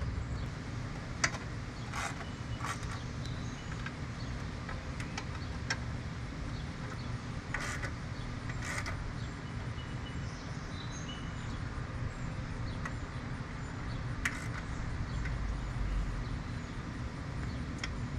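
Hand tools clicking and clinking on metal now and then, over a steady low rumble of background noise.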